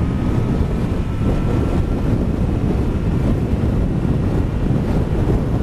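Heavy wind buffeting on a microphone inside a motorcycle helmet while riding at about 45 mph in strong, gusty crosswinds: a loud, steady low rumble.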